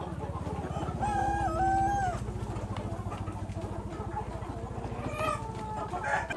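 Chickens calling, with a rooster crowing once in one long, wavering call about a second in and shorter clucks later. Under them runs a low, steady pulsing hum that cuts off suddenly at the end.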